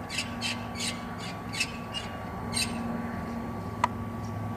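A bird squawking in a quick series of short, harsh calls, about three a second, that stop a little after halfway. A single sharp tap near the end.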